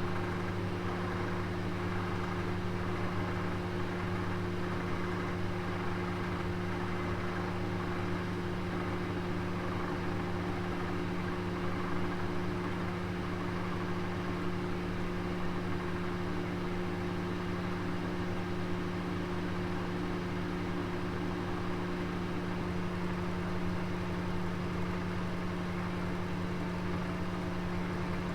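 Oven running with a roast inside: a steady low hum over an even hiss.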